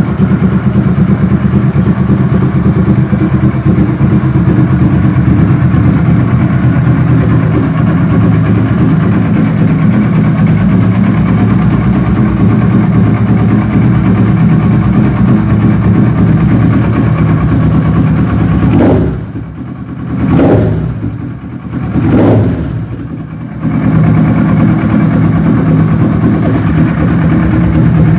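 Kawasaki ER-6n's parallel-twin engine running through a loud custom exhaust, idling steadily, then given a few quick throttle blips about two-thirds of the way through before settling back.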